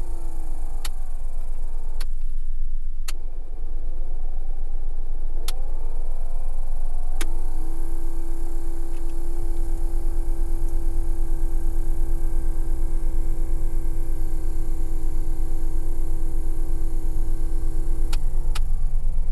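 Suzuki Carry (DA63T) heater/air-conditioner blower fan motor whirring, its pitch falling and rising as the fan switch is clicked between speeds, then holding steady for about ten seconds before two more clicks and a falling pitch near the end. The engine idles steadily underneath. This is the blower motor that is failing.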